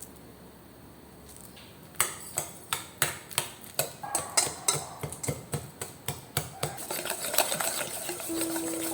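A utensil clinking against a bowl: quiet for about two seconds, then sharp strikes at roughly three a second that grow quicker and run together into continuous clattering stirring toward the end.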